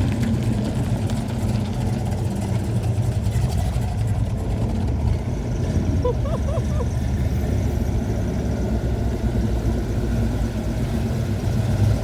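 Car engine running steadily at idle, a continuous low rumble.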